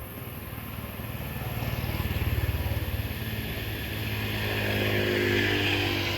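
A motor vehicle engine running close by, growing louder toward the middle and again near the end.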